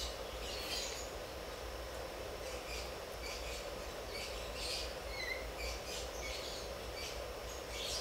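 Faint bird chirps now and then over a steady low background hum.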